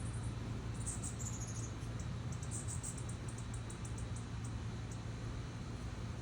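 Costa's hummingbird calling with rapid, very high-pitched chip notes: a quick falling twitter about a second in, a dense run of chips a little later, then spaced single ticks that stop about two-thirds of the way through. A steady low hum sits underneath.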